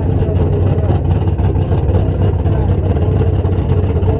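Drag race car engines idling at the starting line: a steady, low, loping rumble with no revving.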